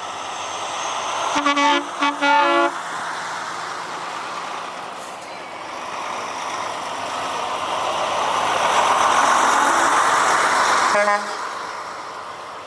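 Truck horn sounding three short toots about a second and a half in, then a truck passing close, its engine noise swelling and fading, and another short horn toot near the end.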